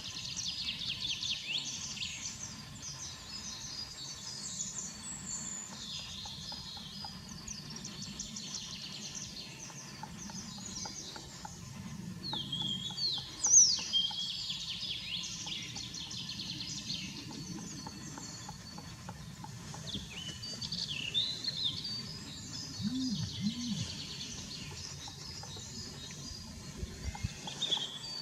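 Several small songbirds singing and chirping at once in woodland, overlapping quick notes throughout, with one louder sharp call about halfway through.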